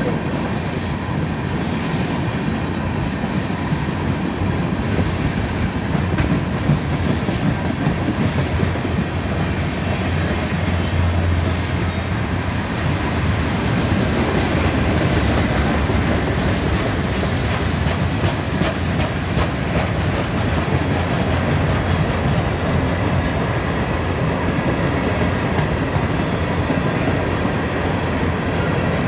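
Freight cars of a passing train rolling by: boxcars, a tank car and coal hoppers give a steady rumble of steel wheels on rail, with sharp clacks from the wheels, busiest around the middle.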